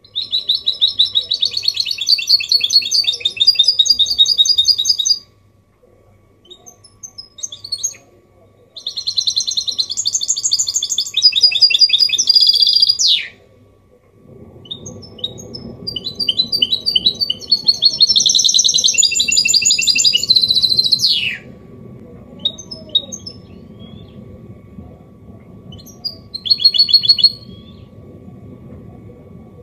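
Goldfinch mule (hybrid goldfinch) singing a clean 'copia Málaga' song: three long, rapid trilling phrases with pauses between, the second and third each ending in a quick falling sweep, then a short burst near the end. A low steady background noise comes in about halfway.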